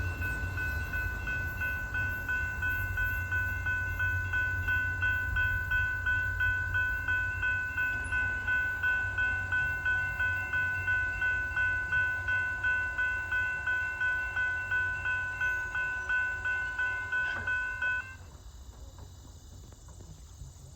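Grade-crossing warning bell ringing rapidly, about two to three strikes a second, over the fading low rumble of a passing Canadian Pacific freight train. The bell cuts off about 18 seconds in as the crossing clears.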